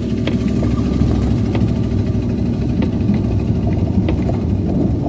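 Car running on the road, heard from inside the cabin: a steady low rumble of engine and tyres with a few light clicks.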